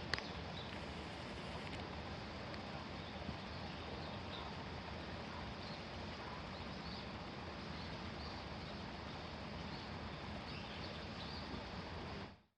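Steady outdoor background noise with faint, scattered high chirps, fading out just before the end.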